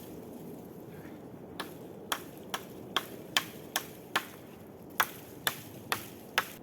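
An axe chopping wood, about eleven sharp strikes roughly two a second with a short pause midway: limbing and splitting a half-dry tree pole.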